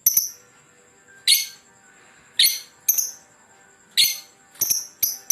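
A lovebird giving short, shrill, sharp calls, about nine of them at uneven gaps, coming quicker near the end.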